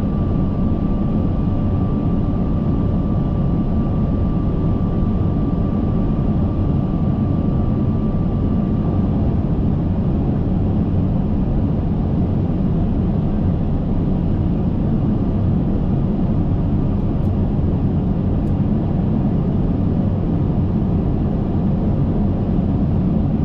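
Steady flight-deck noise of an Airbus A380 on final approach: airflow and engine noise, strongest in the low range, with a faint steady high tone that stops about nine seconds in.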